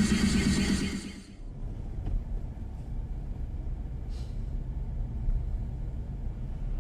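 Music cuts off about a second in, followed by the low, steady rumble of a car driving.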